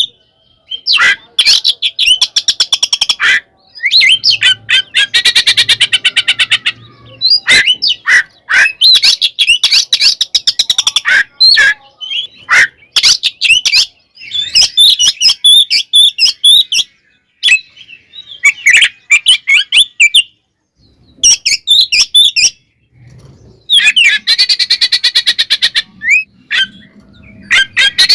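Oriental magpie-robin (kacer) singing loudly and combatively in bursts of a few seconds: fast chattering rattles mixed with whistled notes and harsh squawks, with short silent breaks between phrases. It is the agitated 'ngekek' fighting song of a male in full voice.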